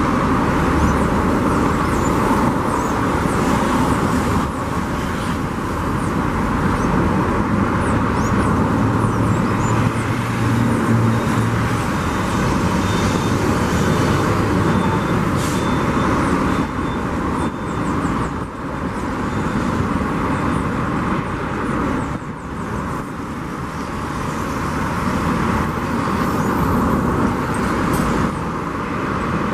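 Jet noise from the four turbofan engines of a Boeing 747-400ERF freighter: a loud, steady rush that holds with little change, dipping slightly around two-thirds of the way through.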